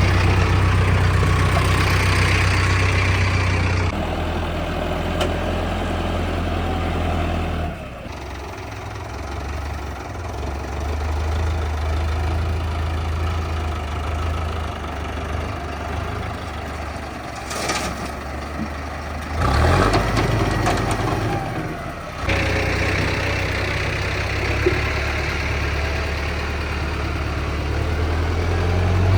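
Diesel tractor engines running at low speed and idling. The sound changes abruptly several times.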